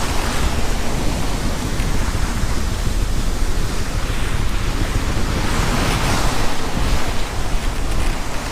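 Rushing wind and water noise, with wind buffeting the microphone in a steady low rumble.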